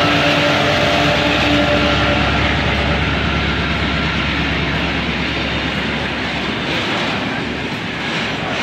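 Diesel-hauled freight train passing close by at a level crossing: the locomotive's engine hum in the first couple of seconds, then the steady rumble of tank wagons rolling over the rails.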